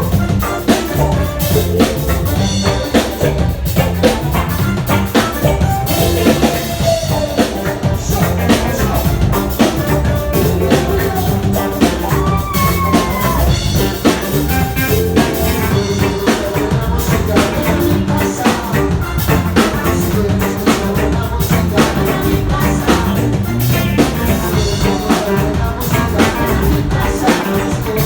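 A band playing reggae-ska music, with a drum kit keeping a steady beat under bass and other instruments.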